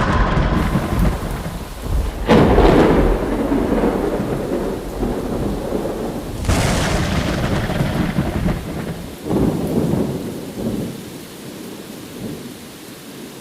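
Rolling thunder over rain, with fresh peals breaking about two, six and a half, and nine seconds in, then rumbling away more quietly toward the end.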